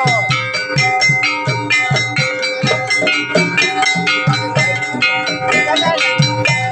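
Jaranan gamelan ensemble playing a fast, steady beat: ringing struck metal keys and gongs over low drum strokes.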